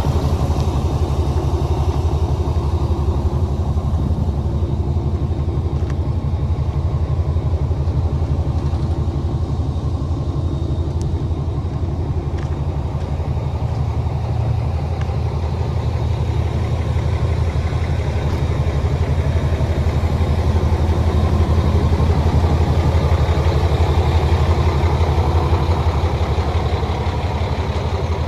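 Diesel engine of a 2005 International 8600 truck idling steadily, with a low, even firing beat. It gets slightly louder in the last third.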